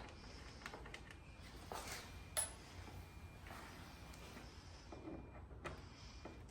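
Faint scattered clicks and light clinks of small screws and plastic trim clips being handled while a car grille is taken apart, with one sharper metallic click about two and a half seconds in.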